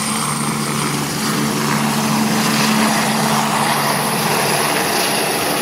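Helicopter's rotor and turbine running loud and steady, with a low hum that fades out about halfway through.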